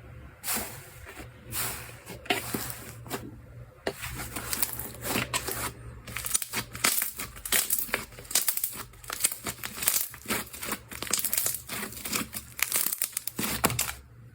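Slime being squeezed and worked by hand, crackling and popping: a few separate crackles at first, then dense, rapid crackling from about four seconds in.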